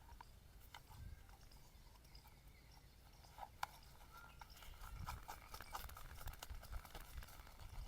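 Faint scattered crackling clicks of a straight razor scraping over lathered stubble, with a couple of sharper clicks near the middle.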